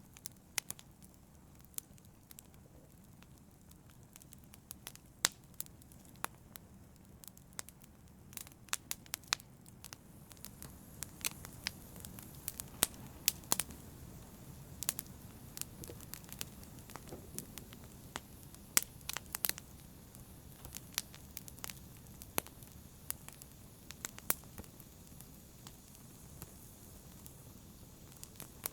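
Wood fire burning in a fireplace: irregular sharp crackles and pops over a soft low rush of flames, the crackling getting busier about a third of the way in.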